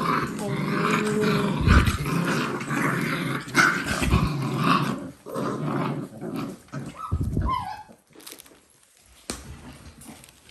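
Dalmatian puppies growling as they play-fight, with a few dull thumps and a short squeal about seven seconds in. It goes quieter over the last couple of seconds.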